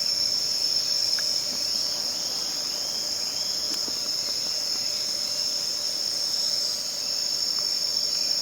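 Steady, unbroken high-pitched chirring of autumn crickets in a forest ambience.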